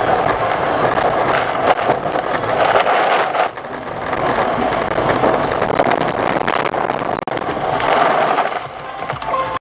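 Vehicle noise picked up by a dashcam: a steady rush of road and engine noise with scattered sharp knocks, cutting off abruptly at the end.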